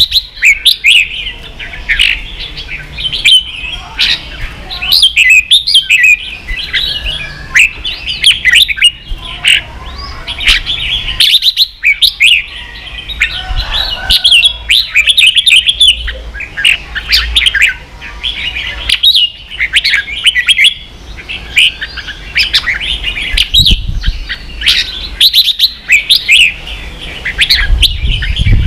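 Red-whiskered bulbul singing in its excited ché style: quick runs of short, sliding whistled notes in phrases broken by brief pauses, with a faint low hum under the song.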